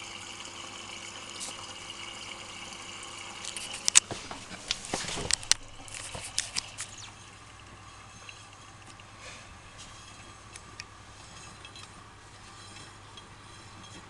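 Miele washing machine filling with water: a steady hiss of incoming water. About four seconds in comes a run of sharp clicks and knocks lasting a few seconds, and after that the filling goes on more quietly.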